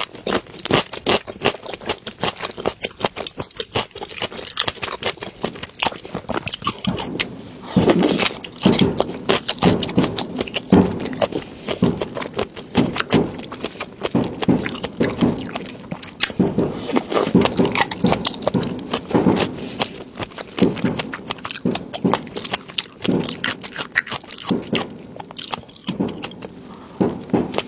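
Close-miked ASMR eating: wet chewing and mouth smacking of a mouthful of raw shrimp with fish roe and crispy topping, full of quick irregular clicks and crackles.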